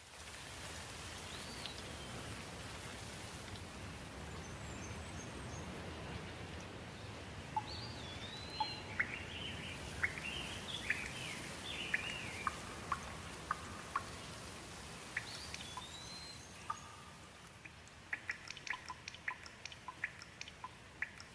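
A steady hiss of water, with birds calling in short rising and falling whistles and chirps through the middle. Near the end the hiss drops away, leaving a quick run of short, sharp ticks.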